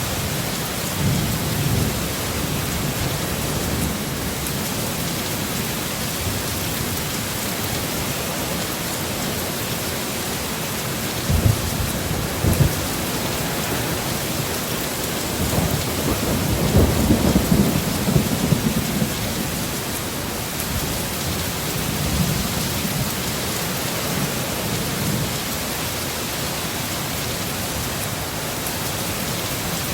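Heavy rain falling steadily, with thunder: a couple of sharp cracks a little before the middle, then a longer rolling rumble just after the middle, and softer rumbles around it.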